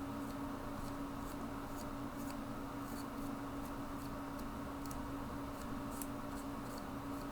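Soft, irregular scratchy ticks of a paintbrush working a weathering wash over the plastic body of an HO scale model freight car, over a steady low hum.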